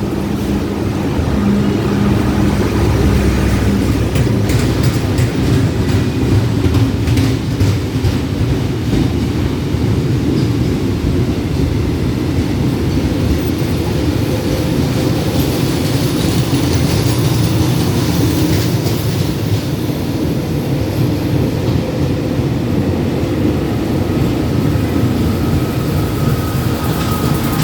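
Railway track-maintenance machines running past in convoy on the line: a loud, steady rumble with clicking of wheels over rail joints, thickest in the first third.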